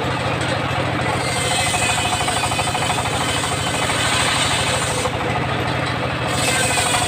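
Engine-driven home-built circular sawmill running with a steady fast low pulsing, with a higher hiss of the saw that comes in about a second in, drops out briefly a little after five seconds, and returns near the end.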